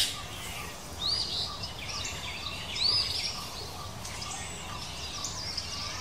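Small birds chirping outdoors: two clear arching chirps about one and three seconds in, with fainter short high calls in between, over a steady background hiss.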